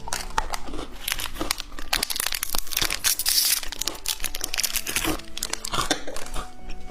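Plastic candy packaging crinkling and tearing as it is handled. Dense crackles run throughout, with the loudest rustling about three seconds in.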